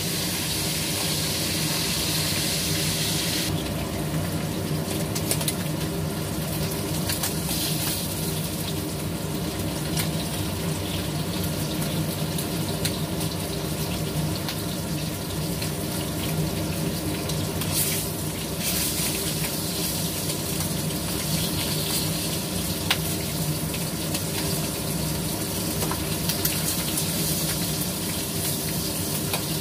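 Fish frying in hot oil in a wok, a steady sizzle with scattered crackles and spatters as pieces are turned with tongs, over the steady hum of the range hood fan. The brighter hiss in the first few seconds drops off about three and a half seconds in.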